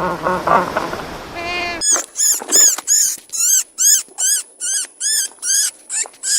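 An animal's drawn-out pitched call, then, after a sudden change just under two seconds in, a fast run of short, high-pitched squeaks, about two a second.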